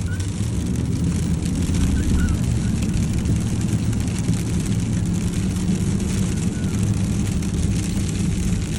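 Inside the cab of a four-wheel-drive pickup truck on the move: the steady drone of the engine and tyres, with a constant hiss of freezing rain hitting the truck.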